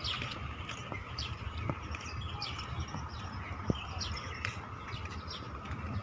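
Small birds chirping in the park trees: many short, high, quick downward chirps from several birds at once, over a steady low background rumble, with one sharp tick a little past halfway.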